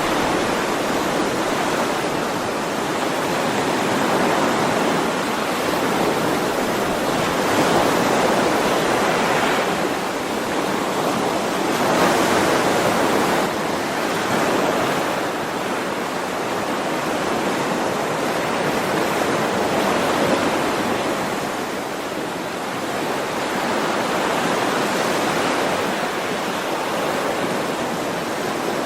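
Sea waves washing onto a shore in a continuous rushing surf that swells and eases every few seconds.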